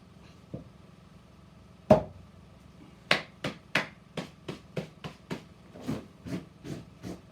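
Firewood being split and chopped with an axe or hatchet: one loud, sharp strike with a short ring about two seconds in, then a run of about a dozen lighter knocks, roughly three a second.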